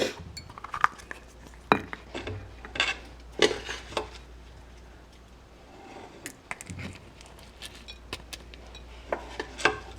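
Filled plastic egg molds clattering and knocking as they are set into a muffin tin, with scattered light clicks of handling between them.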